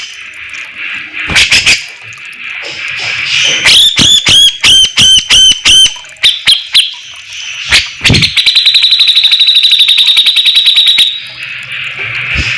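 Grey-cheeked bulbul (cucak jenggot) singing loudly. A few sharp clicky notes are followed by a run of about eight repeated whistled notes, then a fast, even trill of about two and a half seconds, over a steady high hiss.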